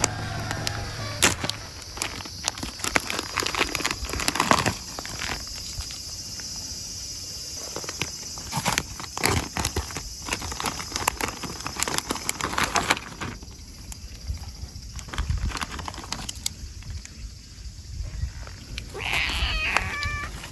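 A cat meowing, once clearly near the end and faintly right at the start, amid frequent short clicks, taps and rustles.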